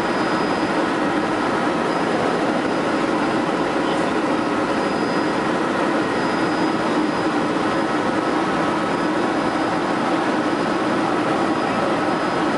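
Helicopter in flight heard from on board: the turbine and rotor make a steady, loud drone with a faint high whine over it.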